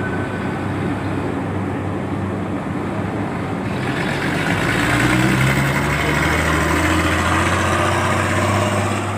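Motor vehicle engines running as vehicles are driven off a ferry; about four seconds in a louder engine and road noise comes in and holds, like a heavy vehicle driving close by.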